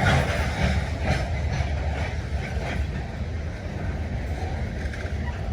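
Manifest freight train's cars rolling on the rails: a steady low rumble with a few faint clicks from the wheels.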